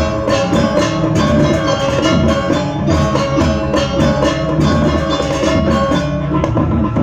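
Balinese gamelan playing a bebonangan-style piece: a dense, rhythmic stream of metal percussion strokes over held, ringing gong tones.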